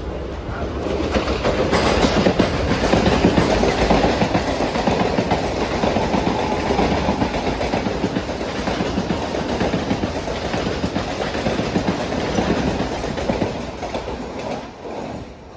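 Mumbai suburban electric local train (EMU) running through the station at speed without stopping. Its noise builds over the first couple of seconds, holds loud while the coaches go by, and fades away near the end.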